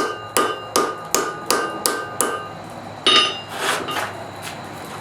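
Blacksmith's hammer striking iron on an anvil in a steady rhythm of about three blows a second, with a metallic ring after each blow. The rhythm stops about two and a half seconds in, followed by one louder ringing strike and a few lighter knocks.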